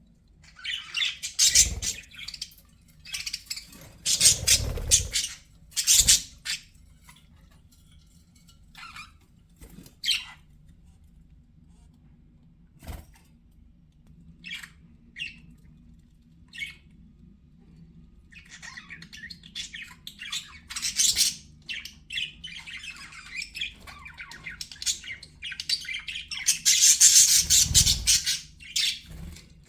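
Pet budgerigars chattering and squawking in bursts. Sparse short chirps come in the middle, then denser, louder chatter builds toward the end.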